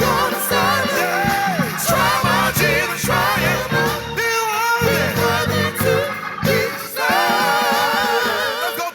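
Gospel praise music: voices singing long, wavering notes with vibrato over a band's sustained low accompaniment.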